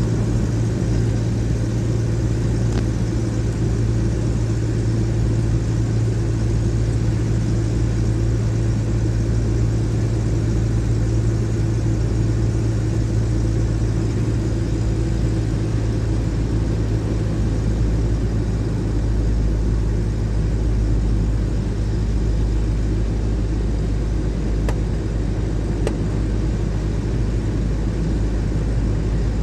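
1979 Chevrolet Caravan cruising steadily on the highway: a constant low rumble of engine and road noise, with no change in speed.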